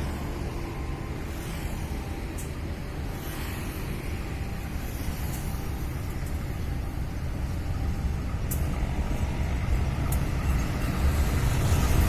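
Diesel locomotive engine running with a steady low rumble that grows gradually louder toward the end, as the locomotive draws nearer.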